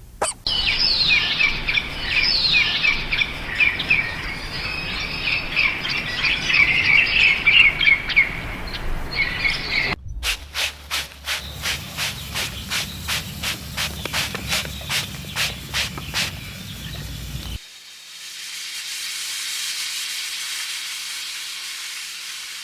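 Many small birds chirping busily together, then an abrupt change to a rapid series of short, sharp calls or clicks about three a second, then a steady hiss.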